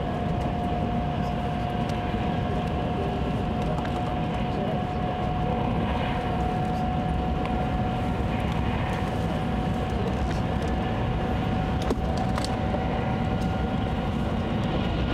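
Interior noise of a Nozomi Shinkansen bullet train running at speed: a steady rumble and rush, with a steady whine that rises slightly in pitch. A faint click comes about twelve seconds in.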